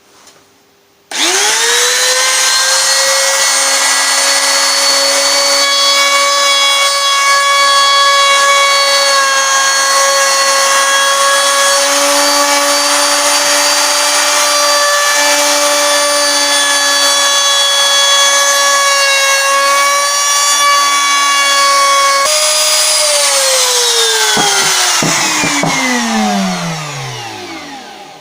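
Router with a round-over bit starting up and running at a steady high whine while cutting a round-over along the wooden edge of a guitar body, then switched off and winding down with a falling pitch over several seconds.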